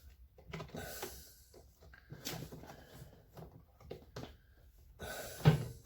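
Scattered knocks and clicks of parts and tools being handled while a washing machine is reassembled, with one sharp knock, the loudest, near the end.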